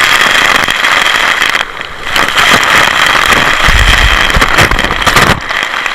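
Rushing water and wind buffeting the camera microphone during a ride down a water slide: a loud, dense rush with a deep rumble through the middle, briefly easing about a second and a half in and again near the end.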